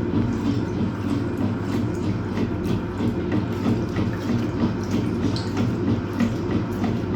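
Hoover Automatic 820 washing machine running a wash: a steady motor hum with water sloshing and splashing in the drum.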